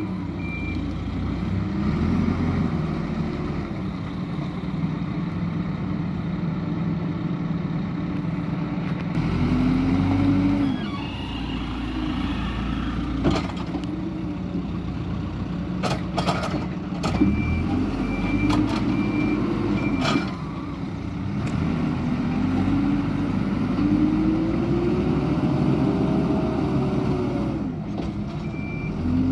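Hidromek 102S backhoe loader's diesel engine running and revving up and down again and again as it works the loader. Its reversing alarm beeps at times, and a few sharp knocks come near the middle.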